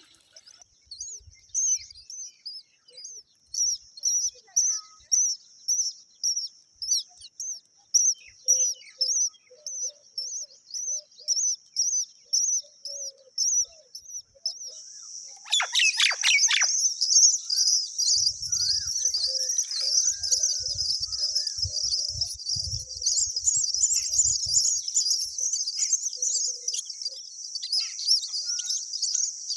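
Myna birds chirping: a high chirp repeated about twice a second, then from about halfway a dense, continuous chorus of high chirps. A few low thumps come in the second half.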